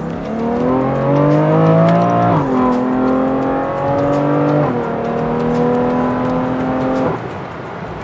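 BMW F80 M3's twin-turbo inline-six, breathing through Active Autowerke equal-length mid pipes, accelerating: the revs climb for about two seconds and drop with an upshift. They climb again and drop with a second upshift a couple of seconds later, then hold nearly steady before falling away about a second before the end.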